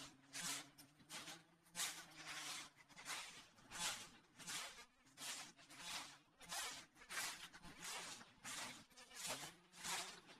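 Faint walking footsteps, a swishing step about every two-thirds of a second at an even walking pace.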